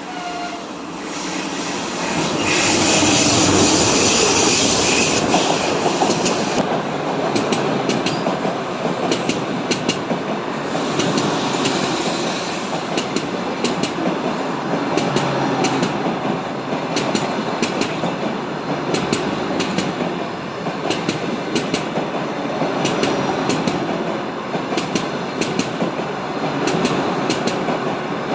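A passenger train running past. It grows louder over the first few seconds into a steady rush, then its wheels clack at regular intervals over the rail joints.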